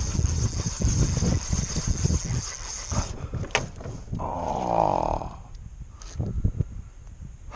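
Strong wind gusts buffeting the microphone with a loud, irregular low rumble and hiss, easing after about three seconds. About four seconds in comes a short voice-like groan.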